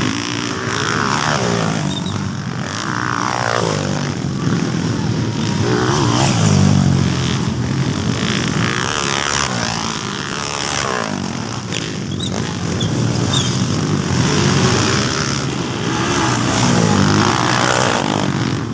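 Motocross motorcycles racing, several engines revving up and falling back again and again as the bikes accelerate, shift and pass.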